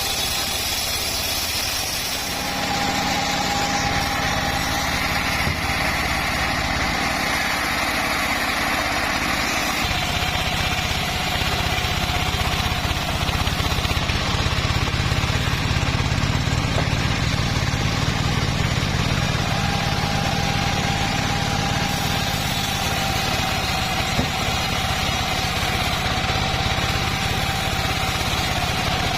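Engine-driven home-built bandsaw mill running steadily, with a steady whine that fades in and out, twice, over the low engine drone.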